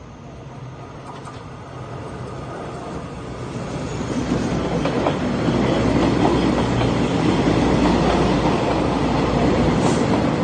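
Train approaching on the rails, its wheels clacking over rail joints, growing steadily louder over about six seconds and then running on at full volume as it passes.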